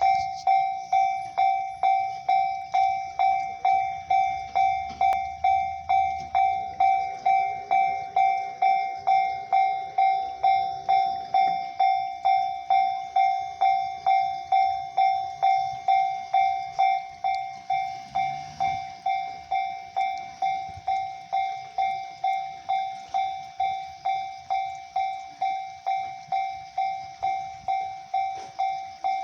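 Japanese railway level-crossing warning bell ringing its repeated 'kan-kan' tone, about two even strikes a second. It drops a little in level about two-thirds of the way through.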